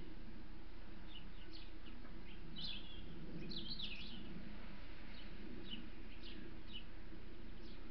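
Small garden birds chirping: short high chirps scattered throughout, busiest around three to four seconds in, over a steady low hum.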